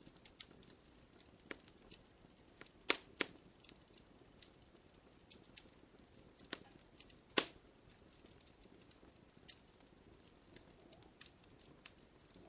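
Wood fire crackling in a fireplace: irregular sharp pops and snaps over a faint low hiss, with the loudest pops about three seconds in and again about seven seconds in.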